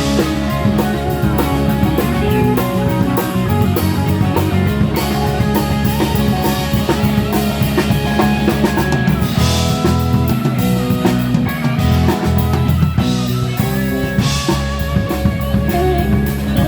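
Live band playing an instrumental passage: guitar over bass and drum kit, with cymbal crashes twice in the second half.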